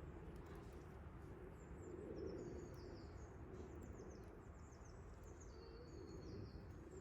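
Faint birdsong: a songbird repeating short, high, falling chirps over a steady background hiss.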